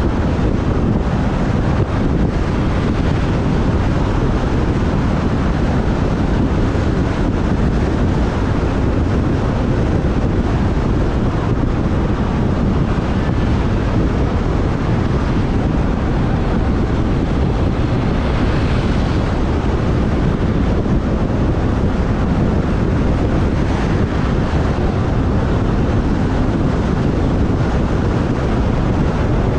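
Wind rushing over the microphone of a camera on a moving motorbike, a steady loud rumble, with the motorbike and surrounding traffic running underneath.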